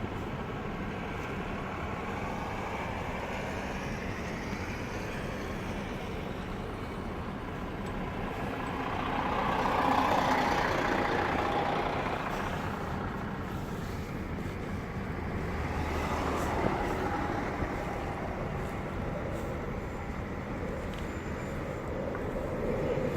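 Motor vehicle noise on a snowy highway: a steady rumble of engines and traffic that swells louder about ten seconds in and again around sixteen seconds.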